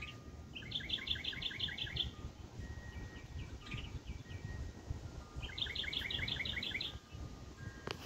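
A small songbird singing two rapid trills of about ten quick, evenly spaced notes each, a few seconds apart, with a few scattered chirps between, over a steady low background rumble.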